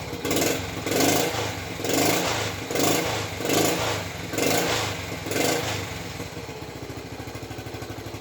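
Honda ST50's small single-cylinder four-stroke engine, freshly rebuilt and running well, is blipped about seven times in quick succession. It then settles back to a steady idle.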